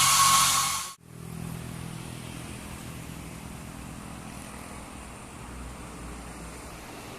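A loud high-pitched whine that cuts off abruptly about a second in, followed by a road vehicle's engine running steadily at a moderate level.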